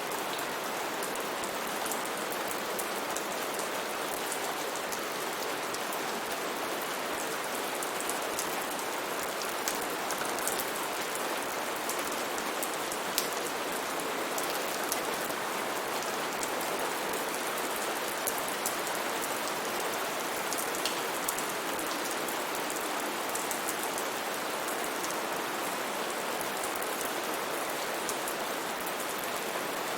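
Steady rain falling, a continuous hiss with many individual drops ticking throughout.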